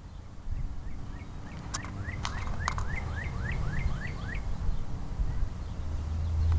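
A bird calling a quick run of about eight short rising notes, roughly three a second, over a steady low rumble that grows louder near the end.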